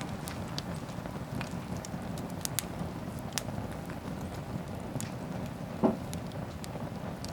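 Wood bonfire burning with a steady low rumble and scattered sharp crackles, and one louder pop about six seconds in.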